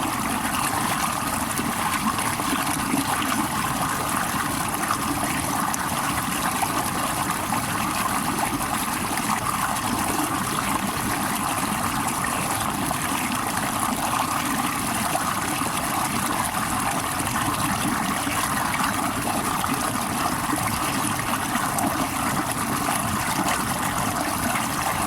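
Running water, a steady rush that stays level throughout.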